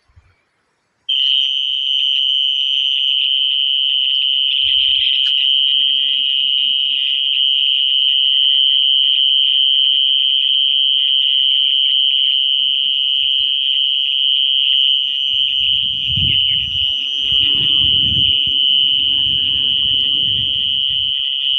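An animal's shrill call: one unbroken, steady high-pitched tone that starts about a second in and does not let up. Low rumbling knocks join it in the last few seconds.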